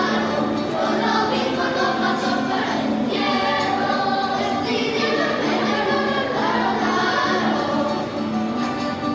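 Children's choir singing a Venezuelan corrío in sustained, held chords, performed live.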